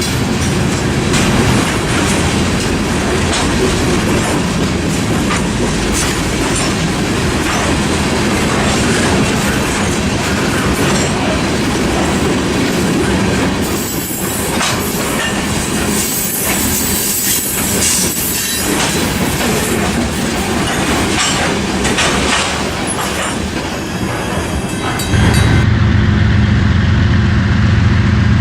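Train rolling past, its wheels clicking over rail joints, with some wheel squeal. About three seconds before the end it changes abruptly to a steady low hum.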